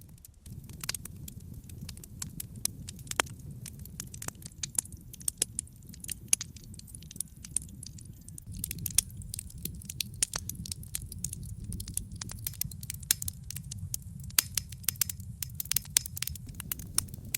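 Wood logs burning in a fireplace, crackling with frequent sharp pops and snaps over a steady low rumble of the flames. The snaps come thickest in the second half.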